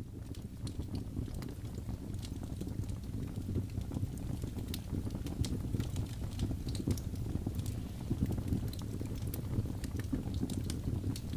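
Wood fire burning: a steady low rush of flames with frequent irregular sharp crackles and pops.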